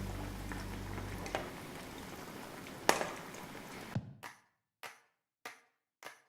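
Breaded chicken deep-frying in hot oil, a steady sizzle with one sharp click about three seconds in. From about four seconds the sizzle cuts out and comes back only in short bursts.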